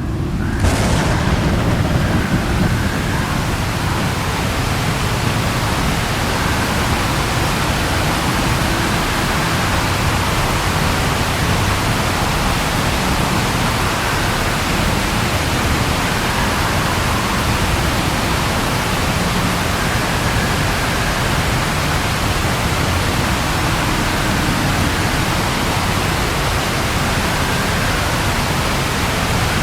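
Rain falling steadily with a low rumble of thunder underneath. It comes in suddenly about half a second in and is a little louder for the first two seconds.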